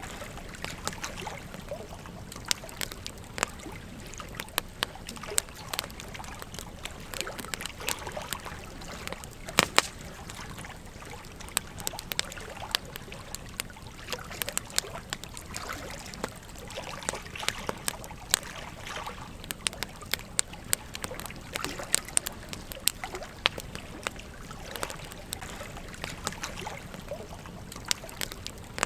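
Campfire crackling with frequent sharp, irregular pops over the steady flow of a gentle stream.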